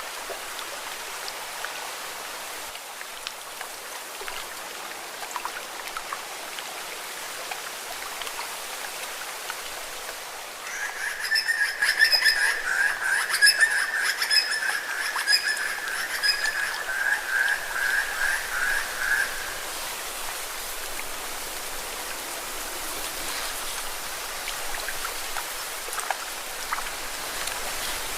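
Small lake waves splashing and washing steadily against rocks. About ten seconds in, an animal's long pulsing, high-pitched call rises over the water, lasts about nine seconds, then stops.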